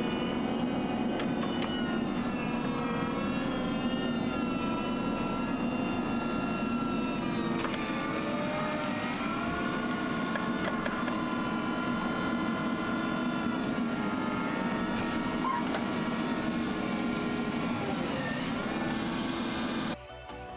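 Fendt 724 tractor engine running steadily under load while ploughing, its revs dipping and recovering about eight seconds in and wavering again near the end. The sound cuts off abruptly just before the end.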